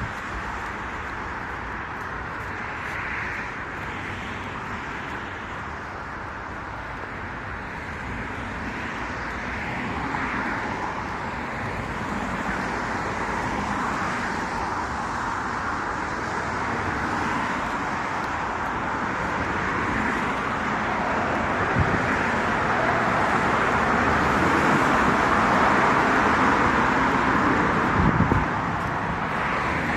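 Road traffic on a town street, a steady wash of tyre and engine noise that grows louder in the second half as traffic comes closer. Two short knocks stand out about two-thirds of the way in and near the end.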